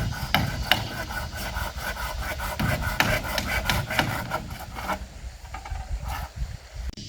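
A hand tool rasping and scraping on wood in a quick, uneven run of strokes, easing off after about five seconds.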